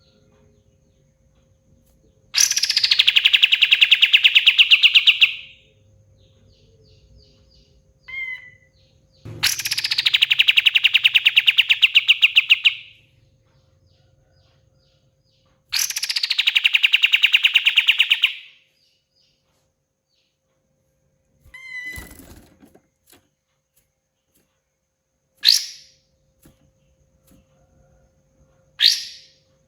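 Kapas tembak songbird singing three long, rapid trills of about three seconds each. Each trill opens with a falling sweep, and short chirps fall between and after them.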